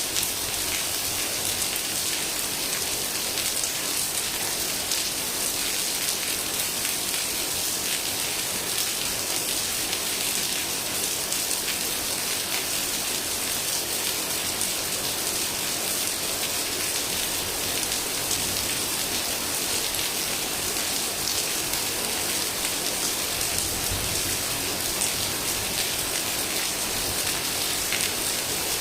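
Heavy rain falling steadily, a dense hiss of drops pattering on surfaces with no let-up.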